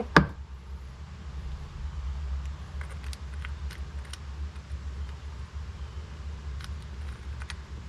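Light clicks and taps from handling small carburetor parts, with one sharper click at the very start, over a steady low hum.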